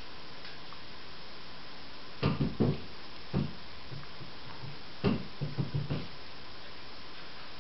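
Two quick clusters of light knocks and thumps, a few strokes each, the first about two seconds in and the second about five seconds in.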